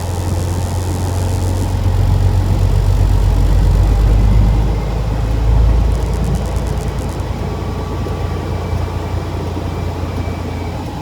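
Diesel engine of a 2000 Freightliner FLD 112 semi running, heard from inside the cab as a steady low drone that swells for a few seconds, with a brief light rattle in the middle.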